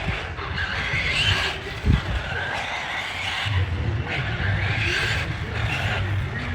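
Radio-controlled car running, its electric motor whine rising and falling as it speeds up and slows, with tyre skidding and a sharp knock about two seconds in.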